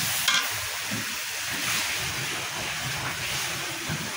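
Fish roe and spices frying in oil in a metal karai, sizzling steadily while a metal spatula stirs and scrapes the pan. There is one sharp scrape against the metal about a third of a second in.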